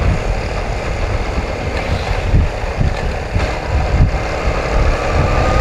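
1982 Honda CM250T's parallel-twin engine running while riding, heavily buffeted by wind on the action-camera microphone, with a faint rising tone near the end.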